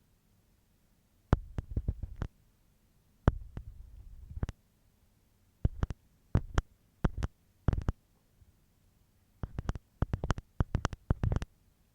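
Ear pick scraping and scratching inside an ear close to the microphone, in short clusters of rapid strokes with quiet pauses between them. The busiest run comes near the end.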